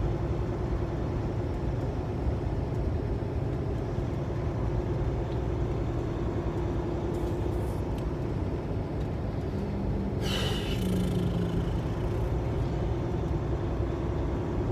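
Steady engine and road rumble heard inside the cab of a 2015 Kenworth T680 semi truck on the move. There is a short hiss about ten seconds in.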